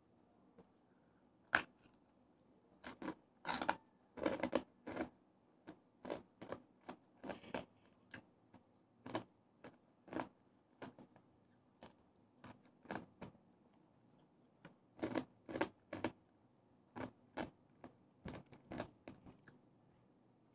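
Close-miked chewing and crunching of crispy deep-fried chicharon bulaklak (pork mesentery), with irregular crisp cracks between quieter chews; the sharpest crack comes about a second and a half in.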